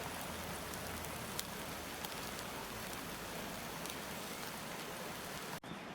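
Steak sizzling on a grill over a charcoal fire: a steady hiss with a few small pops. It cuts off abruptly near the end, then goes on a little quieter.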